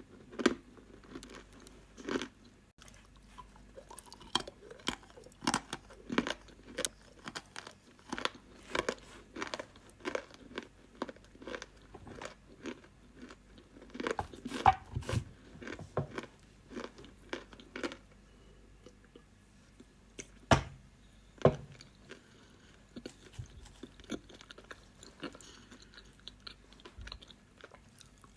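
A person biting and chewing crunchy edible clay close to the microphone: dense rapid crunches that thin out about two-thirds of the way through, with a few sharp, louder single bites.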